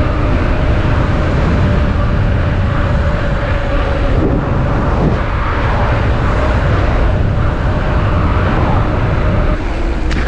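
Strong wind buffeting the microphone: a loud, steady low rumble with rushing noise above it. A faint steady hum runs under it and stops near the end.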